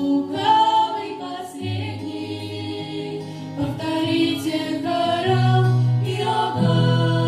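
A group of voices singing a song together in harmony, over low sustained notes that step to new pitches every second or two.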